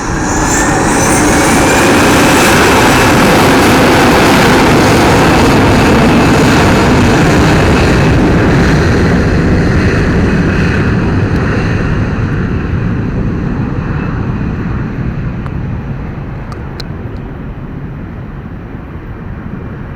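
Airliner engines passing loud, with a thin whine rising in pitch over the first couple of seconds, then the roar fades away through the second half.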